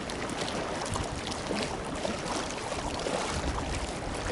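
Steady wind buffeting the microphone outdoors, a low rumbling hiss with a few faint ticks.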